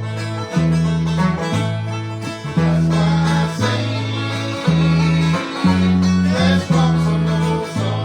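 Hard-driving bluegrass tune, a banjo picking over guitar backing.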